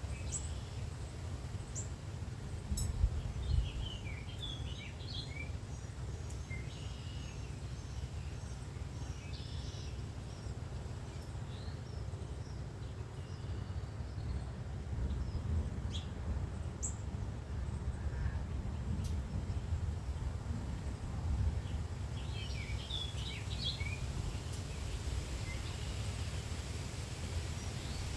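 Songbirds chirping and calling in a few short bursts over a steady low rumble of wind on the microphone, as a storm blows in.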